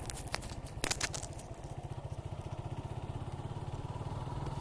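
Suzuki Gixxer 155's single-cylinder engine running steadily at low revs with an even, rapid low pulse. A few sharp clicks sound in the first second or so.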